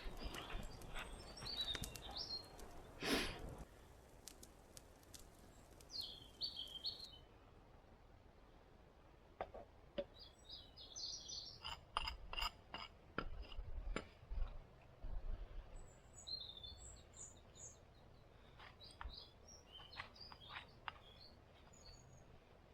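Small birds chirping in short scattered phrases over frequent sharp clicks and ticks, with a brief louder rustle about three seconds in.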